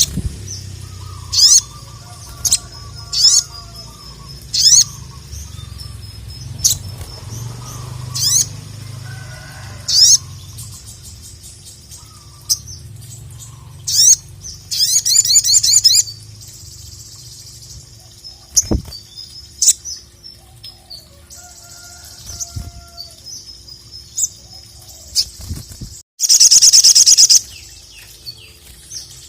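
Ruby-cheeked sunbird (sogon) singing: a series of sharp, high single notes about every one to two seconds. Twice it breaks into a fast trill, a short one about halfway through and a longer, loudest one near the end.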